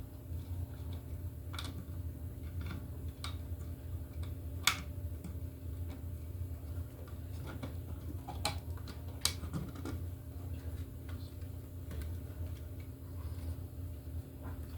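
A few separate light clicks and taps of hands working with small electrical parts, the sharpest about five seconds in, over a steady low hum.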